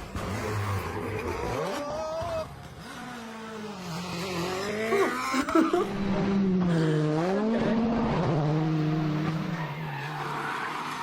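Rally car engine revving hard, its pitch climbing and dropping through gear changes, with a few sharp cracks about five seconds in.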